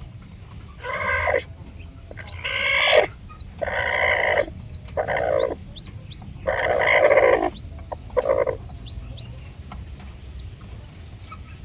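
Aseel Parrot chicken calling: a run of six loud calls, each under a second long, with short gaps between them. Thin high chirps come in between the calls.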